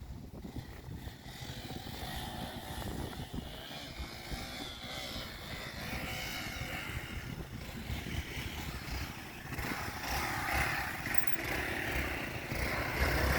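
Motorcycle engines revving during a drift session, the pitch rising and falling, growing louder near the end.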